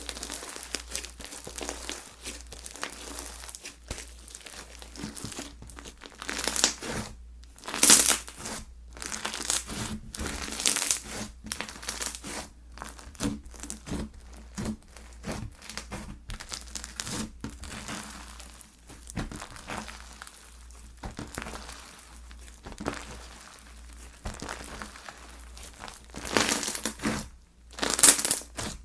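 Slime being squeezed and stretched by hand, with a dense crackling and popping. It gets louder in bursts about a third of the way in and again near the end.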